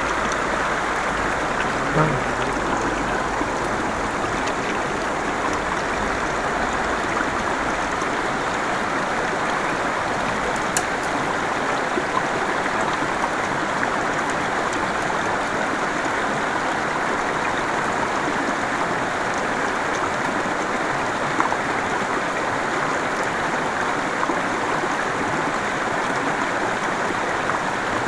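Steady rush of a small mountain river pouring over a riffle and small cascade into a pool, with a few faint clicks.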